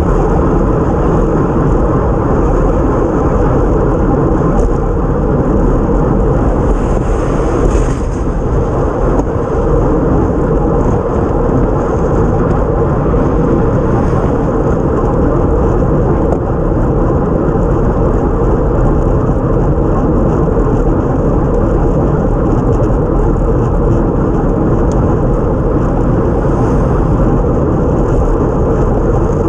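Steady rush of wind over a bike-mounted action camera's microphone, mixed with tyre and road noise from a time-trial bike riding at speed on a wet road.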